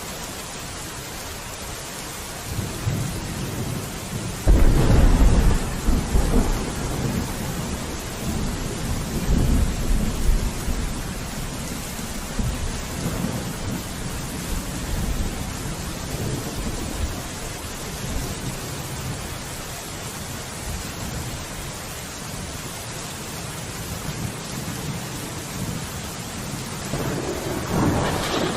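Steady heavy rain with thunder: a loud rumble breaks about four and a half seconds in and rolls on for several seconds, and a second, lighter rumble comes near the end.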